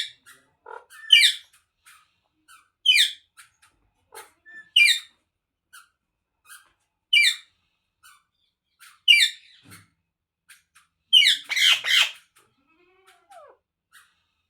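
Indian ringneck parrot giving a series of short, shrill squawks, one about every two seconds, with a longer, louder burst of calls near the end.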